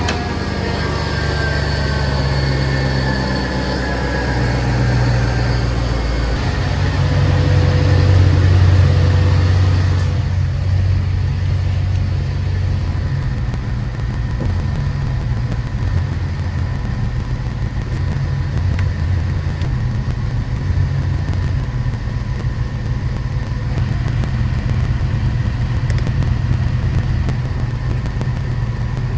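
Mercedes E55 AMG's supercharged M113K V8 idling in park while warming up. A higher whine slides down in pitch over the first few seconds as the idle settles, then the engine runs at a steady, even idle.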